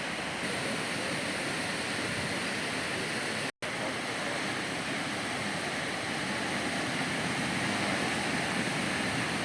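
Steady wash of ocean surf breaking on a beach. The sound cuts out completely for a split second about three and a half seconds in.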